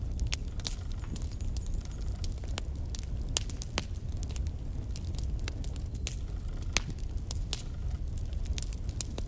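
Logs burning in a fireplace: irregular sharp crackles and pops over a steady low rumble of the fire.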